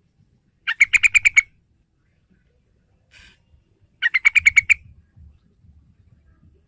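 Yellow-vented bulbul (trucukan) calling: two short bursts of rapid, evenly spaced chattering notes about three seconds apart, with a faint brief rasp between them.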